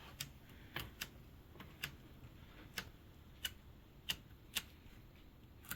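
Light, irregular clicks and taps, about ten of them, from hands working on a plastic headlight housing while pressing sealant into its channel.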